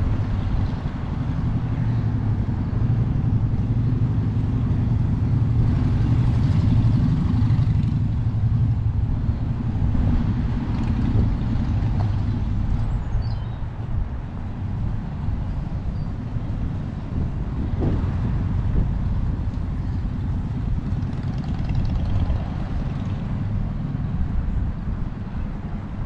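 Wind buffeting the microphone: a loud, continuous low rumble that swells and eases.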